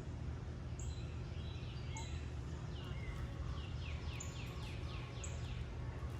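Wild birds calling: short high chirps about once a second, and a quick run of several descending notes a little past the middle, over a steady low rumble of background noise.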